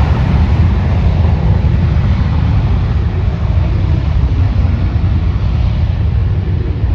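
Jet airliner engine noise: a loud, steady rumble with a hiss above it, the hiss slowly dying away as the aircraft moves off.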